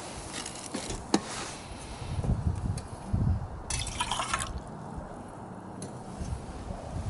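Liquid being poured briefly, with a few light clicks and knocks before it.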